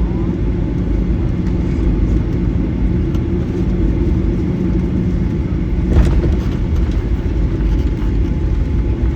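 Inside the cabin of a taxiing Boeing 737-900ER: a steady low rumble of its CFM56-7B engines at low power and the rolling wheels, with a single knock about six seconds in.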